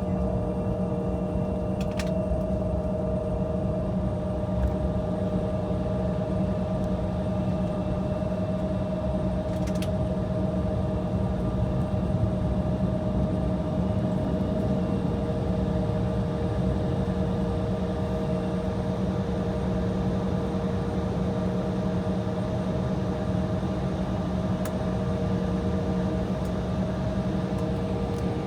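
Steady cabin drone inside an Embraer E175 idling on the taxiway: engines and air conditioning give a low, even hum with a few held tones over it. Two light clicks come about 2 and 10 seconds in.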